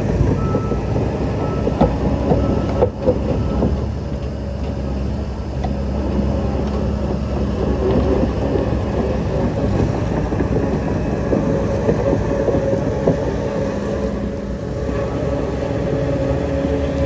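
Heavy earthmoving machinery working: a diesel engine runs steadily under a continuous rattle and clatter.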